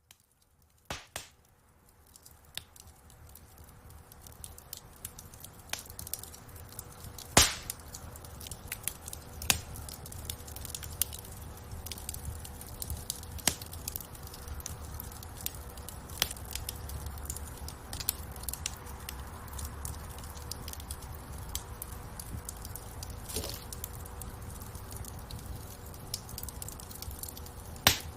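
Wood fire crackling in a fireplace: a low steady rumble of flames with many sharp crackles and pops scattered through it. It fades in from silence over the first few seconds, and the loudest pops come about seven seconds in and near the end.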